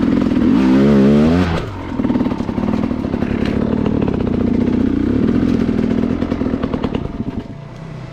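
Enduro dirt bike engine revving hard close by, its pitch sweeping up and down in the first second and a half, then running on at a pulsing throttle before dropping away near the end.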